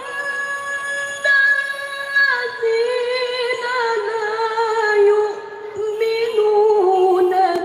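Melodic Quran recitation (tilawah): a high voice holds a long steady note, steps up, then moves into a wavering melismatic run with fast trills that steps down in pitch near the end.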